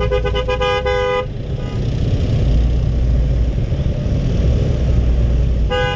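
A vehicle horn honking in a quick series of short toots for about the first second, then again near the end, over a steady low rumble.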